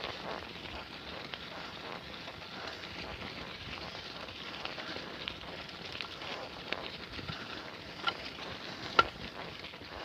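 Bicycle riding over a dirt trail: a steady crunch of tyres on gravel and twigs with scattered clicks and rattles, and a sharp knock about nine seconds in.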